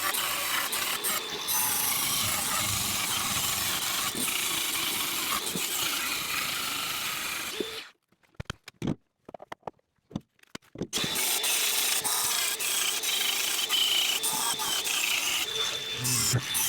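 Angle grinder grinding the tops off MIG welds on steel car bodywork, a steady harsh grinding noise. It stops about eight seconds in for roughly three seconds, with only a few clicks, then starts grinding again.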